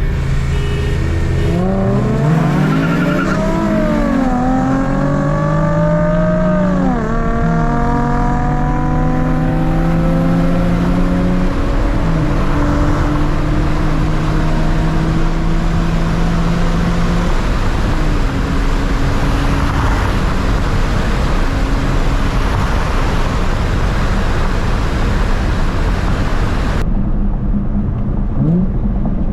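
Car engine accelerating hard through the gears: the revs climb and drop at two shifts in the first seven seconds, then hold steady at speed under loud road and wind noise.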